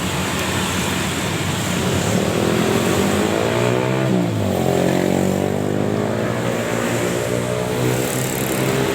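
A motor vehicle engine runs with a steady drone over background hiss, coming in about two seconds in. Its pitch dips and swings around the middle, then holds steady.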